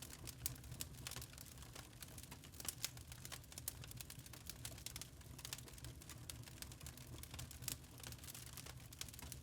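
Wood fire crackling in a fireplace: irregular sharp pops and snaps over a low steady rumble of the burning.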